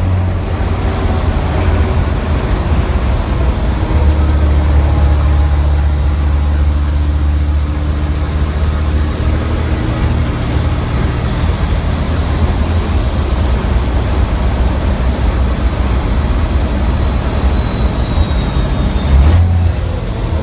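Racing truck's big diesel engine heard from the cab under hard load, with a high turbo whistle that rises, holds and then falls away. The engine note steps up about four seconds in, and there is a brief sharp hiss and dip near the end.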